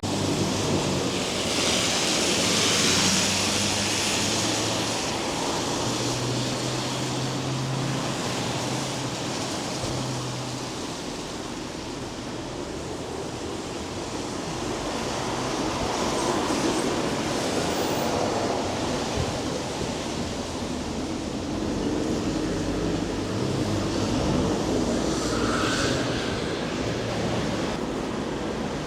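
Traffic on a wet road: vehicles passing with swelling tyre hiss over a steady low engine hum.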